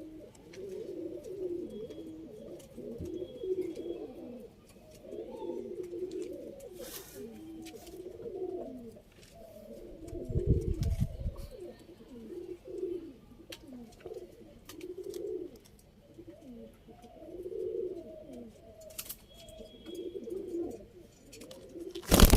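Domestic pigeons cooing over and over, several calls overlapping throughout. About ten seconds in there is a low rumble lasting a second or so, and a loud rustle or knock of noise near the end.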